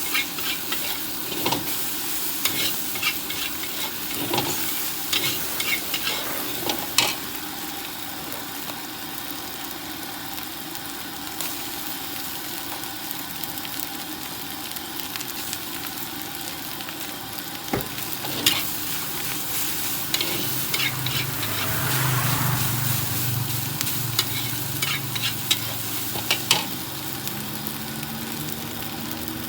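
Fried rice sizzling in a hot wok while a metal spatula stirs and tosses it, the steady sizzle broken by sharp clacks of the spatula against the wok, in clusters at the start and again in the second half. A low engine hum joins in the last third.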